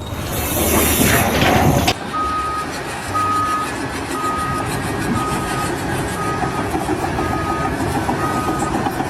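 A loud hissing rush that cuts off abruptly about two seconds in, followed by a vehicle's reversing alarm beeping steadily at about one beep a second over a low engine rumble.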